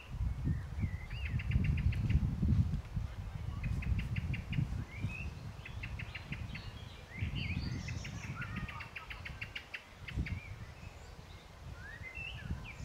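Songbirds singing: several trills of rapid repeated chirps and a few short whistled notes, over an uneven low rumble.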